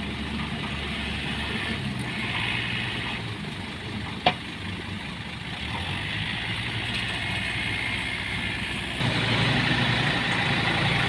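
Heavy vehicle engine running steadily, louder from about nine seconds in, with one sharp click about four seconds in.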